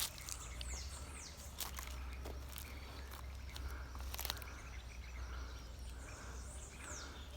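Quiet outdoor ambience with a steady low rumble and a few sharp clicks, while a bird gives short high whistles falling in pitch, once about half a second in and again near the end.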